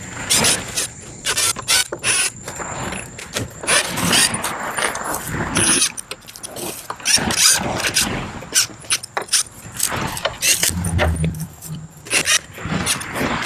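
Irregular rustling, scraping and clattering as the sides are taken off a potato grow bag and the soil is worked by hand.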